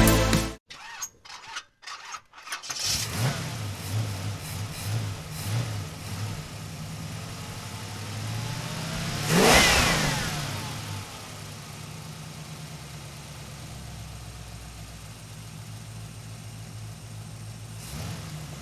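Pontiac GTO's V8 being started: it cranks briefly and catches about three seconds in, then runs unevenly through a few throttle blips. It gives one sharp rev that rises and falls near the middle, then settles into a steady idle.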